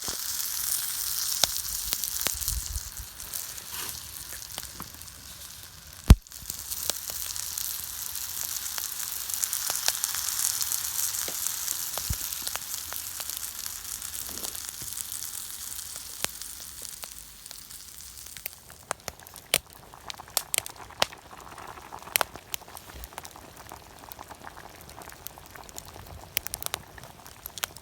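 Food frying in a pan over a campfire: a steady high sizzle with scattered sharp clicks and one loud knock about six seconds in. After about eighteen seconds the sizzle dies down, leaving a quieter bed with many sharp clicks.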